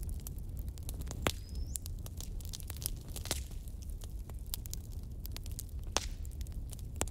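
Wood fire crackling: a steady low rumble under constant small irregular crackles, with a few louder sharp pops and a brief faint high whistle rising in pitch about a second and a half in.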